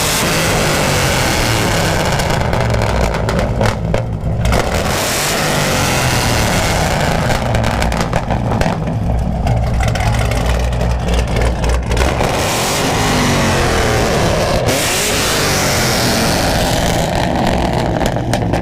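Modified Chevrolet Camaro V8 revved hard through a loud aftermarket exhaust again and again, dropping briefly between revs.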